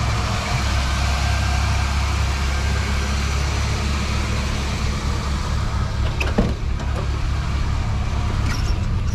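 1984 Chevrolet El Camino's engine idling steadily and sounding strong, with a single sharp click about six seconds in.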